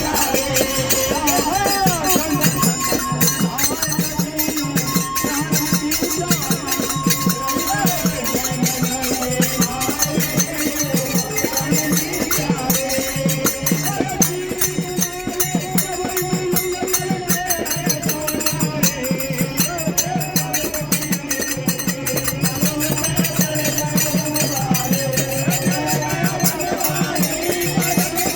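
Devotional folk-style singing over fast, steady rattling hand percussion.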